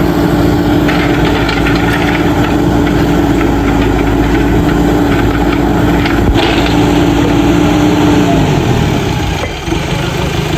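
Diesel engine of a backhoe loader running steadily at raised revs, then dropping to a lower speed about eight seconds in. A short clatter about six seconds in.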